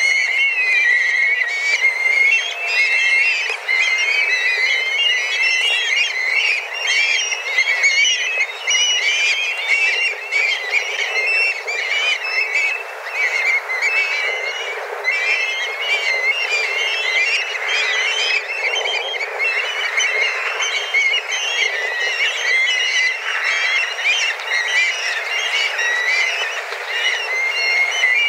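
A large flock of black kites calling all at once: many overlapping high, wavering whistled cries in a dense, continuous chorus.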